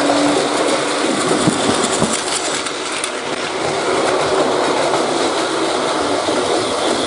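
A train running along the track: a steady, loud noise with the clatter of wheels over the rails, cut off abruptly just after the end.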